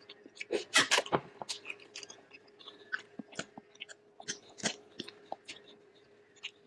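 Close-miked chewing and lip-smacking of someone eating bulalo beef shank soup: many short, irregular wet smacks and clicks, loudest about a second in.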